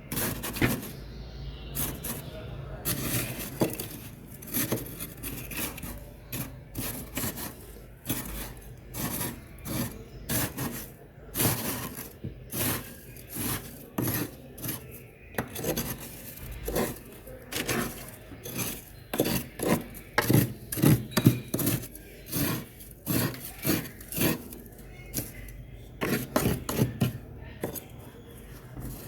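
A person biting and chewing refrozen freezer frost: a steady run of short, gritty crunches, about one or two a second, with a louder cluster a little past the middle.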